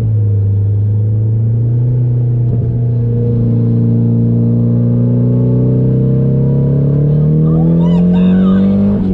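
Nissan 240SX's engine pulling steadily through one gear, its pitch climbing slowly for about nine seconds, then dropping sharply at a gear change at the very end.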